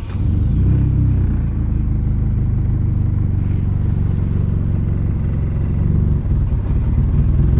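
Car engine that has just fired on a cold start, running at a low, rough idle and struggling to hold it, a steady rumble that grows a little uneven after about six seconds. The owner suspects three-month-old gas, with a faulty wiring harness and worn injectors also in question.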